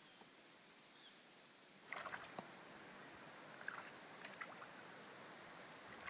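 Insects chirring steadily: a high continuous drone with a pulsing trill just beneath it, and a few faint scattered clicks.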